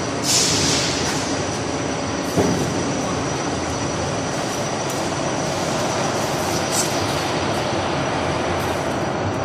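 Gas fire pit burner flame burning with a steady rushing noise, with a brief hiss just after the start and a single knock a couple of seconds in.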